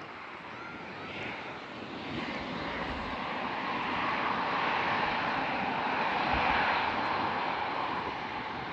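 Jet airliner's engines passing close, a broad rushing roar that grows steadily louder, peaks about six seconds in, then eases slightly.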